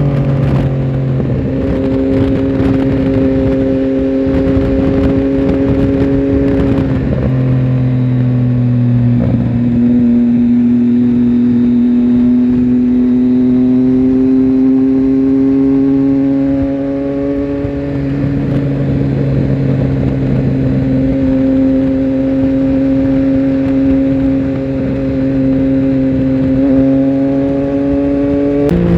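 Triumph Tiger Sport 1050's inline three-cylinder engine running at steady cruising revs under the rider, with wind rush. The engine note holds level for several seconds at a time, shifts pitch a handful of times and climbs slowly in the middle.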